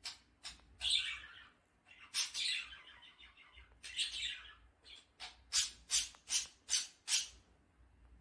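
A raw potato being peeled: short scraping strokes of the blade across the skin, several longer drawn strokes in the first half and then a quick run of about three strokes a second.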